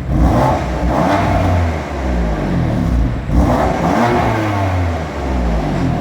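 2015 BMW M4's twin-turbo 3.0-litre straight-six exhaust, blipped twice from idle, the revs falling away after each blip.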